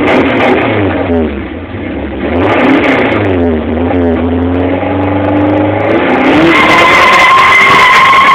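Volkswagen Gol's engine revved up and down several times, then held loud and steady, with a high steady squeal starting about two-thirds of the way through.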